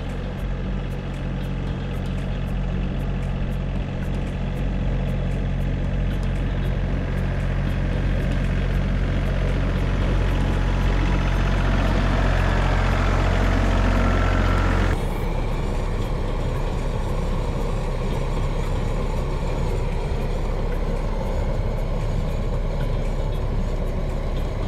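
Diesel engine of a John Deere 3320 compact tractor running steadily. About halfway through, the sound changes abruptly and then carries on steady.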